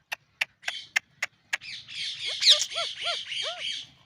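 A run of sharp, evenly spaced clicks. Then, from about halfway in, a ringneck parakeet's harsh chattering squawk with a short arching note repeated about five times.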